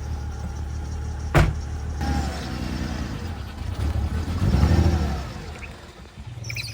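BMW E46 engine running, with one sharp clunk about 1.4 s in. The revs then rise as the car tries to pull away on one driven wheel with a broken rear axle, and sag near the end as the engine stalls.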